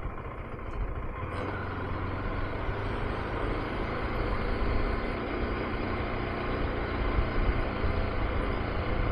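KTM 390 Adventure's single-cylinder engine running steadily at low speed in slow traffic, with road and wind noise.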